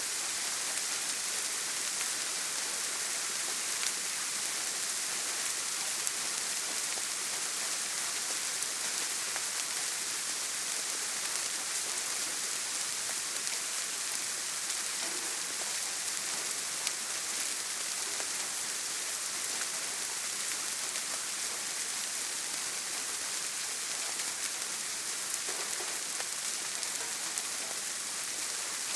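Rain falling steadily on a tin roof: a dense, even hiss with faint scattered drop ticks.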